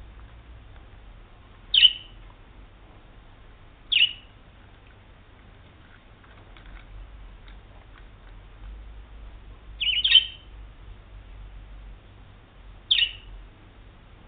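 Budgerigar giving four short, sharp chirps spaced a few seconds apart, the third a quick double chirp.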